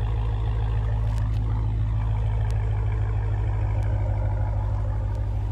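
Dodge Challenger Scat Pack's 6.4-litre HEMI V8 idling steadily, its low exhaust note coming through an exhaust with the mid-mufflers deleted.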